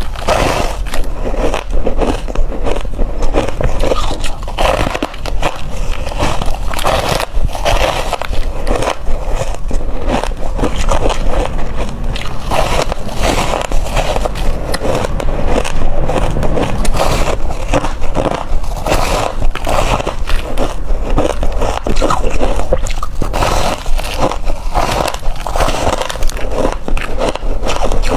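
Hard crushed ice being bitten and crunched close to the microphone: a loud, dense, unbroken run of crisp cracking crunches.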